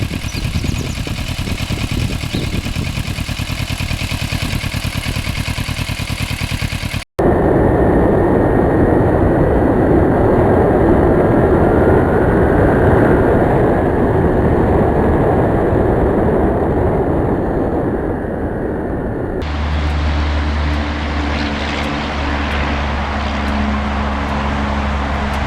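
Kawasaki Ninja 650R's parallel-twin engine running with an even pulse. After a cut about seven seconds in comes a loud rush of wind on the microphone while riding, and near the end a steady low hum.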